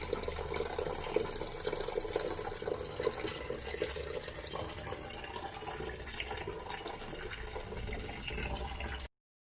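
Engine coolant draining out of the radiator, pouring steadily into a catch container. It cuts off suddenly near the end.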